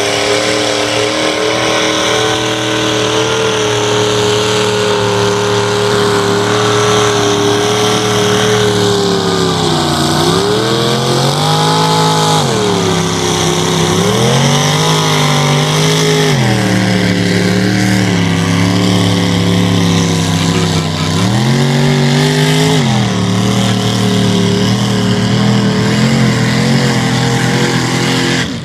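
GMC mega truck's engine running hard at high revs under heavy load in a mud bounty hole. The pitch holds steady, then sags and climbs back several times in the middle.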